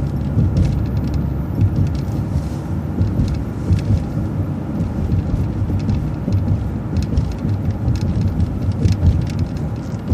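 City transit bus driving, heard from inside: a steady low engine and road rumble with frequent light rattles and clicks.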